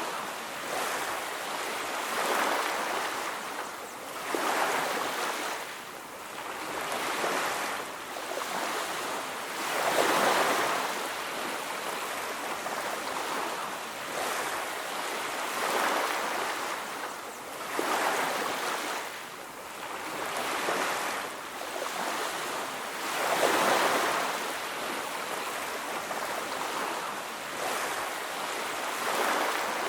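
Ocean surf washing onto a beach: a steady hiss of waves that swells and fades every few seconds, with the biggest waves breaking about ten seconds in and again near twenty-four seconds.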